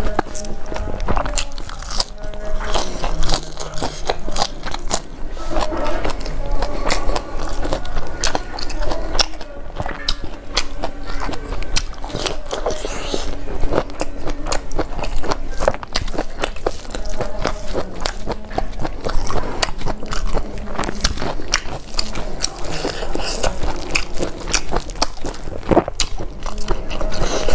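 Close-miked wet chewing and lip smacking as rice and fried chicken are eaten by hand, with frequent sharp clicks from the mouth and fingers.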